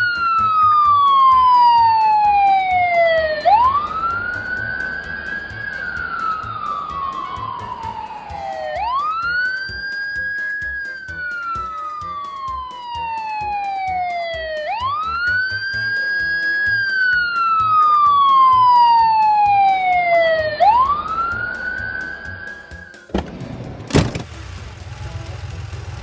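Ambulance siren sound effect wailing: each cycle rises quickly then falls slowly over about five seconds, repeated four times. It cuts off about 23 seconds in and is followed by a single sharp knock.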